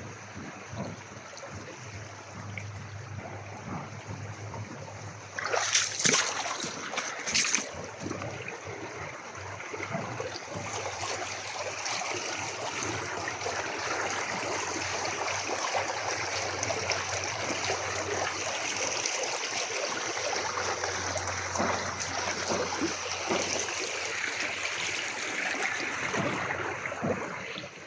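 A creek's water flowing and trickling steadily. A few sharp, loud sounds come between about five and eight seconds in, and the flow grows louder from about ten seconds.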